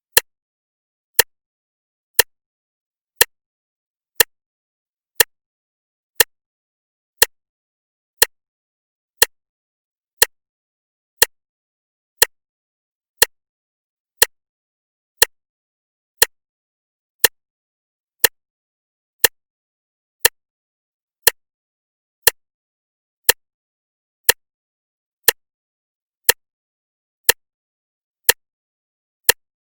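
Clock ticking steadily, one sharp tick each second with silence between the ticks.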